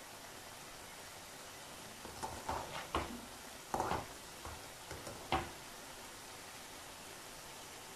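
Frozen French fries sizzling steadily in hot oil in a pan. A handful of utensil knocks and clatters against the pan come from about two seconds in to about five and a half, the last one the sharpest.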